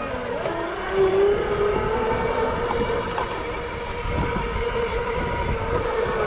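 Dirt bike engine running with a steady droning pitch that rises over the first second and then holds.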